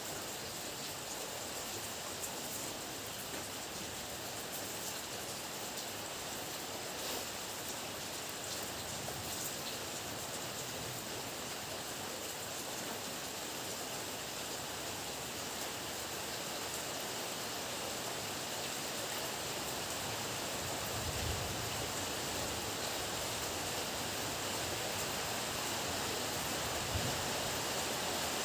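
Heavy rain pouring steadily, a dense even hiss with scattered drop ticks, growing slightly louder. Brief low rumbles of thunder come in about three-quarters of the way through and again near the end.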